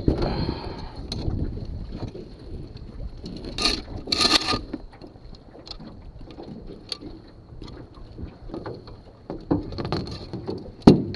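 Wind buffeting the microphone, with two short rushing bursts about three and a half and four seconds in, scattered small knocks, and a louder knock near the end.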